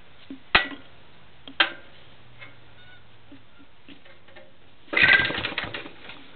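Old Briggs & Stratton engine on a Simplicity walk-behind garden tractor being pull-started without catching: two sharp clacks in the first couple of seconds, then about a second of rapid chattering as the starter rope is pulled and the engine turns over without firing, which the owner puts down to not having it on choke.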